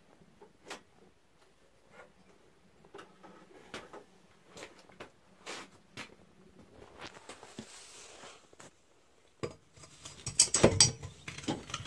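Metal parts and hand tools clinking and tapping during removal of a mower's Briggs & Stratton OHV engine, with scattered light clicks and then a louder run of clanks and knocks near the end.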